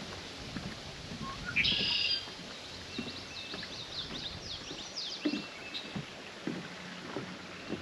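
Songbirds singing: a loud phrase about a second and a half in, then a run of quick repeated notes from about three to five seconds. Occasional footsteps thud on the wooden planks of a footbridge.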